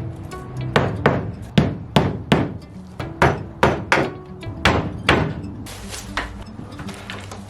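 Hammer blows on wood, a quick, uneven series of about a dozen strikes that stops about six seconds in, as a small wooden platform is knocked together.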